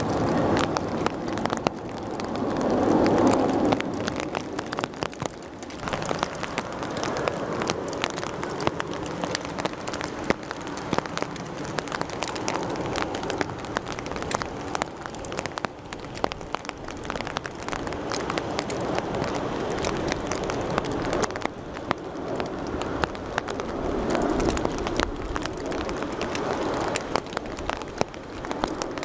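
Steady rain, with drops crackling close to the microphone, over the jet engine noise of airliners on approach, which swells about three seconds in and again near the end.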